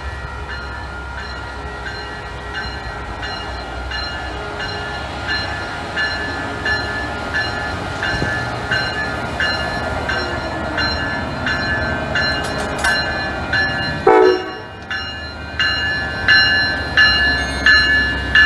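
Amtrak Siemens Charger SC-44 diesel locomotive pulling slowly into a station, its engine rumbling under a bell ringing steadily about one and a half strikes a second. The bell grows louder as the locomotive draws alongside, with one brief loud knock about three-quarters of the way through.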